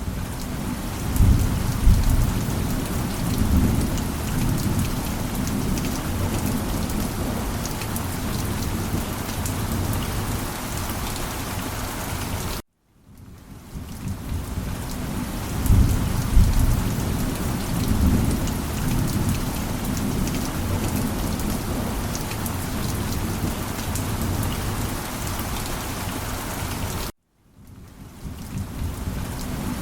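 Steady heavy rain with low thunder rumbles. The sound cuts out abruptly twice, about 14.5 seconds apart, and fades back in each time, with a thunder rumble a second or two after each return.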